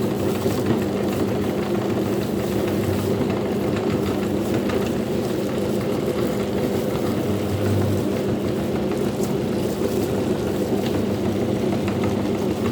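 Electric meat grinder motor running steadily: a constant hum with faint scattered crackles.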